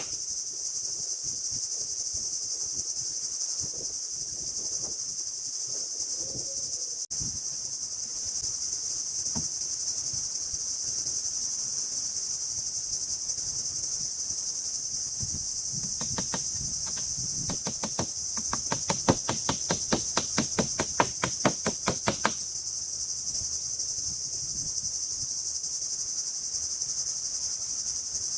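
Steady high-pitched insect chorus, like crickets. About sixteen seconds in, a run of quick, even taps comes in at roughly five or six a second and stops after about six seconds; these are the loudest part.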